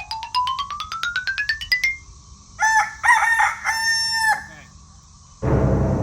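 A fast rising run of short notes, then a rooster crowing a full cock-a-doodle-doo. Music starts suddenly near the end.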